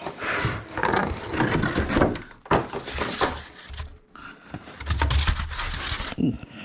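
Cardboard box and packaging being handled as parts are pulled out: a run of rustling and scraping with a few sharp knocks.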